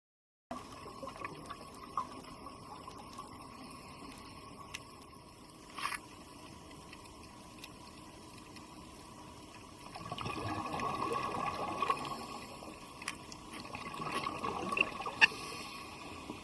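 Underwater ambience picked up by a diver's camera: a steady watery hiss with a faint hum and scattered small clicks. Bubbling swells up twice, around ten seconds in and again near the end.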